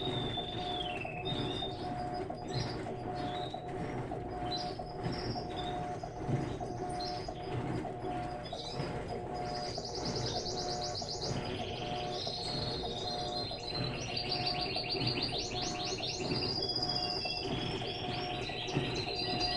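Birds chirping and trilling over the steady hum and regular churning of an Electrolux LTE12 top-load washing machine agitating its wash water, about two strokes a second; the trills grow busier in the second half.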